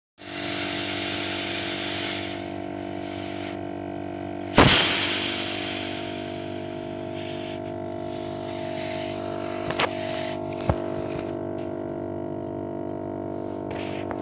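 Pressurised gas hissing through refrigerator pipework during flushing, over a steady mechanical hum. The loudest moment is a sudden rush of gas about four and a half seconds in, which fades over a couple of seconds; a few light clicks follow near the end.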